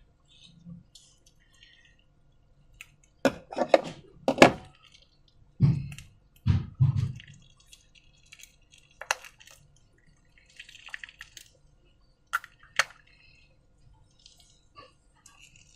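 Wet, sticky slime being handled and worked, giving scattered sharp clicks and drip-like smacks with a few soft low squelches. The loudest clicks come around four to five seconds in, with more near the end.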